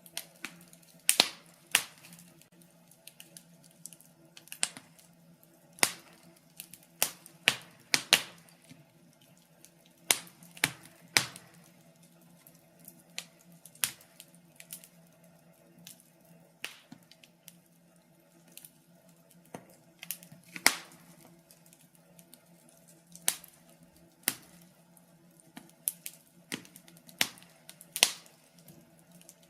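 Wood logs burning in a fireplace, crackling with irregular sharp pops and snaps, some much louder than others, over a faint steady low hum.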